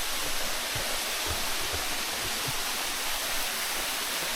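A waterfall rushing with a steady, even hiss. A few soft low knocks sound in the first half.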